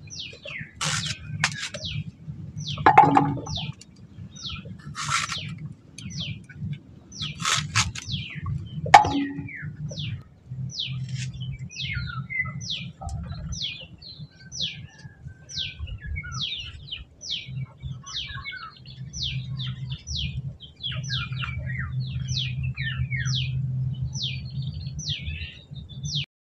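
A bird calling over and over, a short falling whistle repeated a little more than once a second. A few sharp clicks come in the first ten seconds, over a steady low hum.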